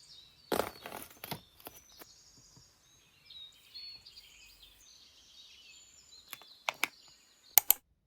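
Small birds chirping, with a few sharp knocks or clicks: a loud cluster about half a second in and two pairs of clicks near the end.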